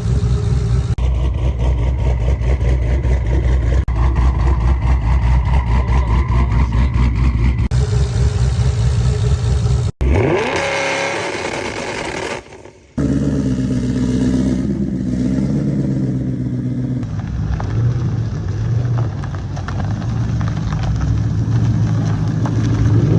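High-performance Ford Mustang V8 idling and blipping in a string of short edited clips, with one sharp rev that rises and falls near the middle. The clips are joined by abrupt cuts.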